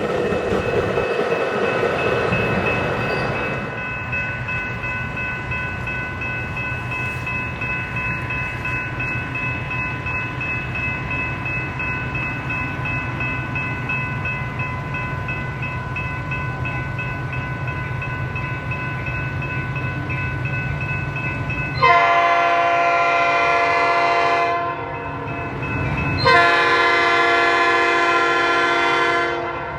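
A train rumbling past with a steady high ringing tone over it. About two-thirds of the way in, a locomotive's multi-chime air horn blows two long blasts of about three seconds each, with a short gap between them.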